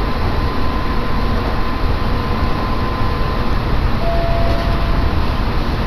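Interior noise of a moving train: a steady rumble of wheels on the rails with a faint steady whine, and a short higher tone about four seconds in.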